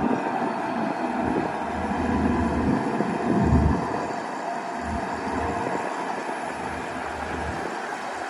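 Shantui DH17-C2 bulldozer's diesel engine running steadily under load while pushing dirt, with low rumbling swells, the strongest about three and a half seconds in.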